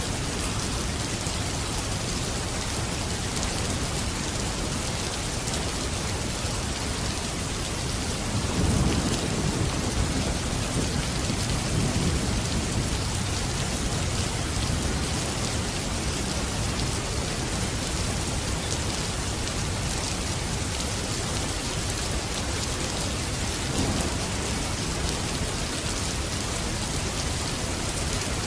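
Steady rain falling, with a low rumble of thunder rolling in about nine seconds in and lasting several seconds, and a shorter, fainter rumble a little later.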